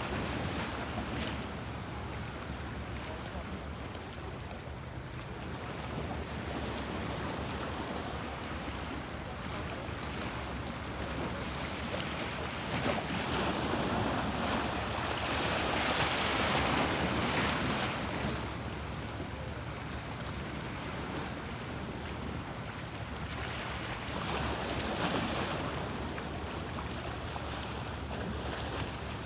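Bosphorus sea waves washing in a steady hiss of water, swelling to their loudest about halfway through and again briefly near the end.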